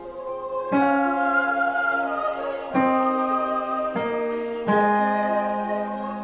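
Piano sounding the tenor part of a choral song, new notes struck with sharp attacks about every one to two seconds and left to ring, with a voice singing the line along with it.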